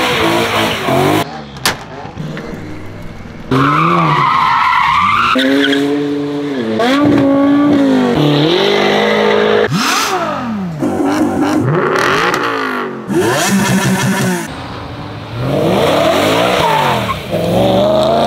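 A quick succession of BMW M car engines revving and accelerating hard, their pitch sweeping up and down, with abrupt cuts from one car to the next every second or two.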